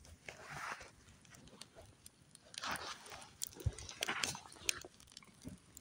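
Soft rustling swells and scattered light clicks and snaps from materials being handled to build a smoky smudge fire against flies.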